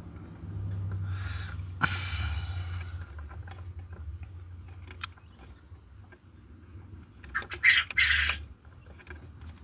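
Quail calling in two short bursts, one about a second in and one near the end, over a low rumble, with a sharp click about two seconds in.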